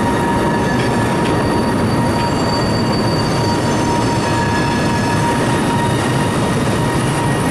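Railroad tank cars rolling slowly past, a steady rumble of wheels on rail with faint, thin wheel squeal running through it.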